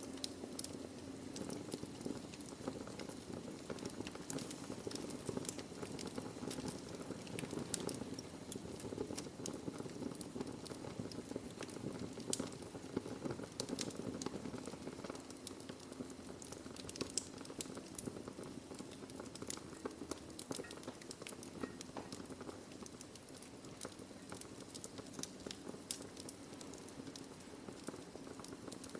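Wood fire burning in a fireplace: a steady low hiss and rumble of flames with frequent small, sharp crackles and pops from the burning logs, scattered irregularly.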